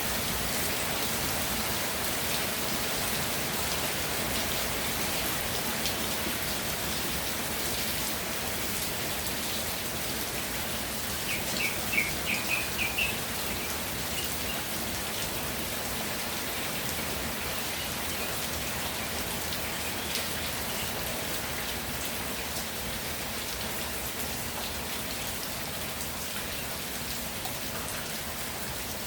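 Steady rainfall, an even hiss of raindrops. About eleven seconds in comes a brief run of about six quick high chirps.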